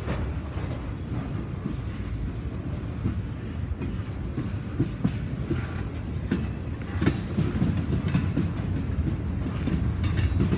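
Train rolling past: a steady low rumble with the wheels clicking over rail joints, the clicks getting sharper and more frequent in the second half.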